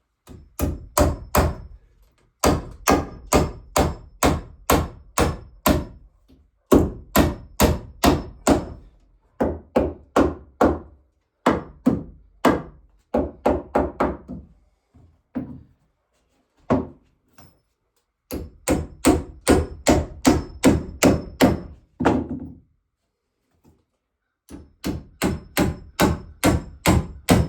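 Hammer striking wood in runs of quick blows, about three a second, with short pauses between runs, typical of nailing boards in carpentry.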